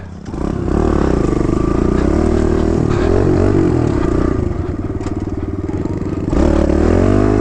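Kawasaki KLX110 dirt bike's small four-stroke single-cylinder engine running under throttle, its pitch rising and falling as it is ridden. It eases off about four seconds in and picks up again sharply just after six seconds.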